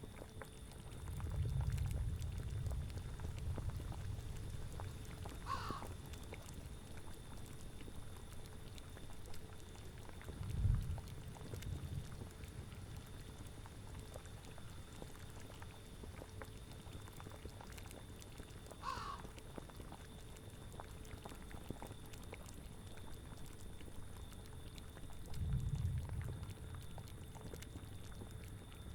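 Layered ambience of a cauldron bubbling and boiling, with low rumbling swells near the start, about ten seconds in and near the end. Two brief, high, gliding animal calls sound about thirteen seconds apart.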